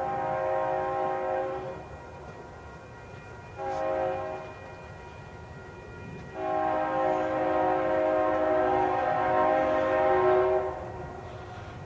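A Union Pacific diesel locomotive's multi-chime air horn sounds a long blast, a short one, then another long one, the closing part of a grade-crossing warning. A low rumble from the train runs underneath.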